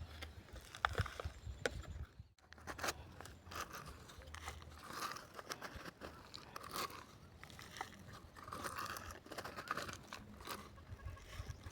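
Loose soil crunching and scraping as toy vehicles scoop and tip dirt, with scattered small clicks of plastic parts.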